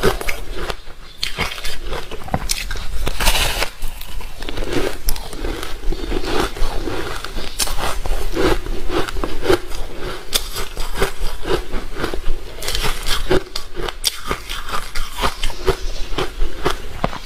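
A person biting and chewing ice, with crisp, repeated crunches and cracks coming close together throughout.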